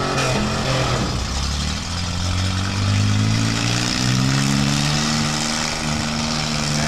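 Demolition derby minivan engines revving hard under load as the vans push against each other; the engine pitch climbs over a second or so, about two seconds in, then holds high and steady.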